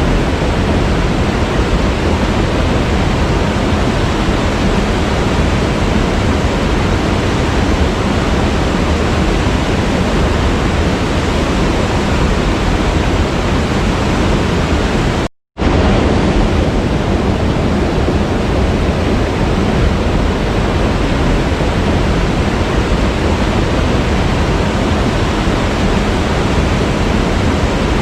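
Waterfall rushing, a steady, dense wash of falling water. It cuts out completely for a split second about halfway through, then resumes unchanged.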